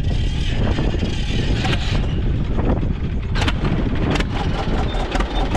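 An engine running steadily with a heavy low rumble, most likely a farm tractor. A few sharp knocks or clicks can be heard over it.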